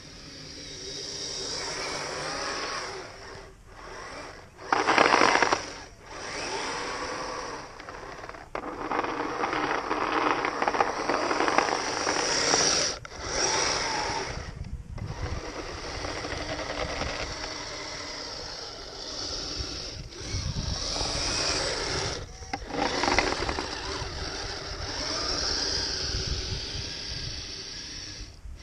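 Electric drive motor and gearbox of a Kyosho Blizzard RC snowcat whining as it runs on metal tracks. The whine rises and falls with the throttle and cuts out briefly several times, with one loud burst about five seconds in.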